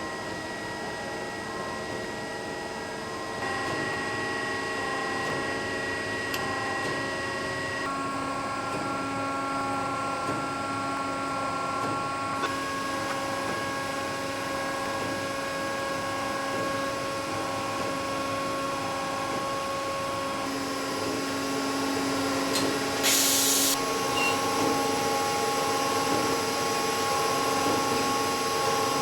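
CNC multispindle lathe running: a hiss of machining and coolant under several steady motor whines that step to new pitches every few seconds as the spindles and slides change speed. A short, sharper hiss about 23 seconds in.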